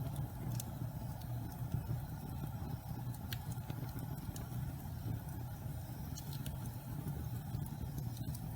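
Fire of damp pine logs burning in a fireplace: a steady low rumble with scattered sharp crackles and pops.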